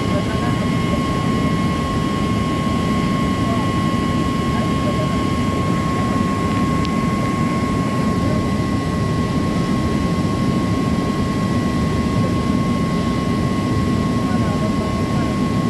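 Steady, loud drone of running machinery, with a constant high whine over a dense low rumble and no change in speed.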